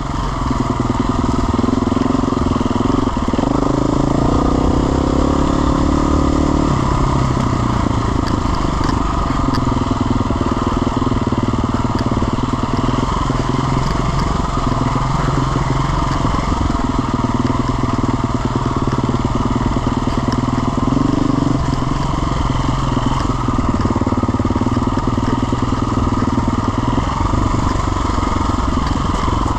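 Jet ski engines running continuously and loudly on a mud track, their pitch shifting up and down as the throttle changes.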